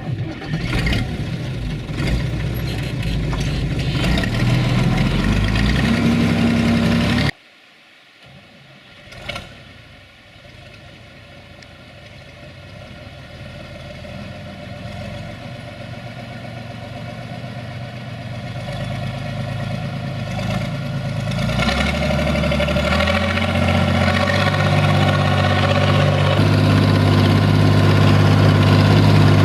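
SAME Laser 110 tractor's diesel engine running, cutting off abruptly about a quarter of the way in. After a short knock, the engine is heard again, growing steadily louder, and its pitch rises toward the end.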